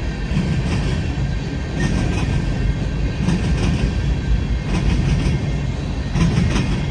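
Union Pacific freight train rolling past: a steady low rumble of wheels on rail, with scattered clicks as the wheels cross rail joints.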